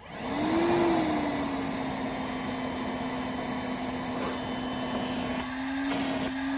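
Milwaukee M12 0960-20 cordless wet/dry vacuum switched on, its motor spinning up with a brief rise in pitch and then settling into a steady hum on low speed. It is running from a battery that reads dead after the vac cut out on high.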